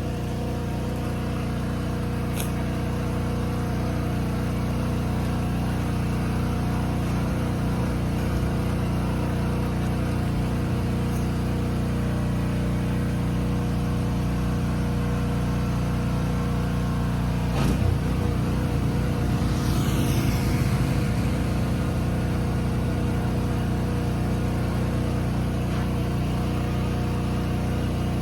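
An engine running steadily with a low, even hum. There is a sharp click a couple of seconds in, a knock about two-thirds of the way through, and a short falling squeak just after.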